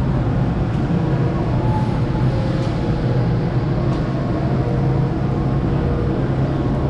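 Steady mechanical hum over a low rumble, unchanging in level, with a few held tones.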